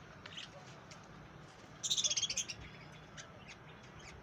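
Budgerigars chirping: scattered short chirps, with a quick run of rapid chirps about two seconds in, the loudest part.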